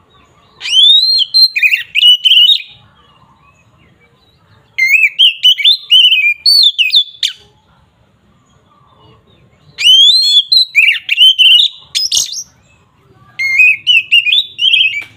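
Oriental magpie-robin (kacer) singing loud, clear song in the style keepers call "ngeplong": four phrases, each about two seconds of rising whistles and quick warbled notes, with short pauses between them.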